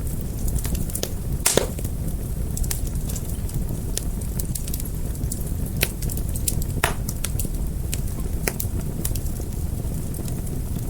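Fire crackling: a steady low rumble of burning with frequent sharp pops and snaps, the loudest pop about a second and a half in.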